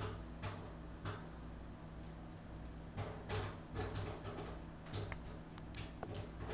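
An animal eating: irregular crunching clicks and small knocks, over a steady low electrical hum.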